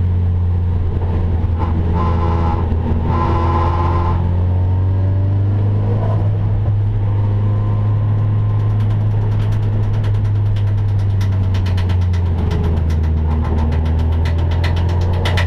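Nissan 240SX race car's SR20DET turbo four-cylinder engine heard from inside the stripped cockpit, running steadily without big revs. From about nine seconds in, a fast rattle of sharp ticks runs over the engine.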